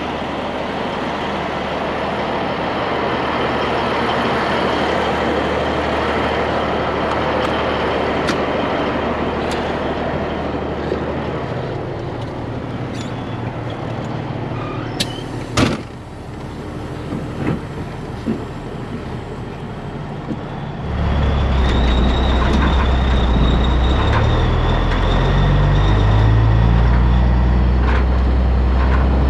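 Heavy diesel engines running under a dense rushing noise, with a single sharp knock about two-thirds of the way in. A little later a diesel engine comes up loud, its pitch stepping up and down as it is revved.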